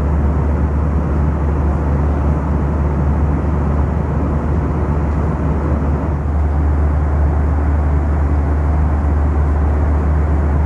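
Boeing 737 cabin noise in cruise: a steady rush of airflow and engine drone over a strong, even low hum.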